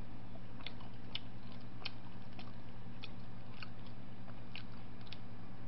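A person chewing a mouthful of pizza, with faint, irregular wet mouth clicks every half second or so, over a steady low hum.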